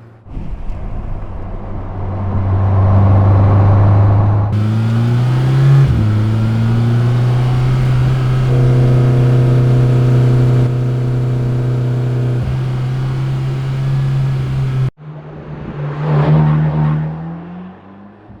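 Mercedes-AMG GT Black Series' twin-turbo V8 with a flat-plane crankshaft, running under load. Its pitch rises and then drops at a gear change about six seconds in, and it holds a steady note until it cuts off suddenly. After that there is a short rise and fall in revs near the end.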